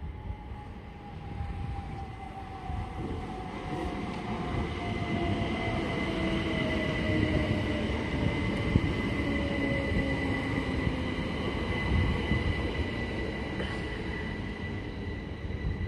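Great Western Railway passenger multiple unit running into the platform and slowing. The wheels and running gear rumble, a motor whine falls slowly in pitch over the first ten seconds or so, and a steady high squeal joins from about four seconds in.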